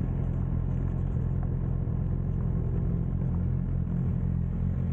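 Motorcycle engine idling steadily while the bike stands pulled over, a constant low hum with no revving.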